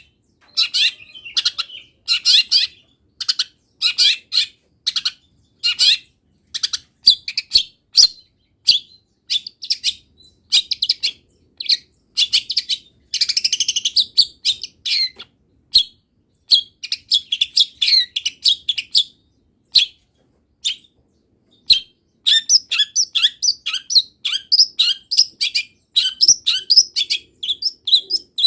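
Long-tailed shrike (cendet) singing a long, varied song of short, high chirps and whistles in quick succession, packed with mimicked calls of wild birds. The notes come fastest and most evenly in the last few seconds.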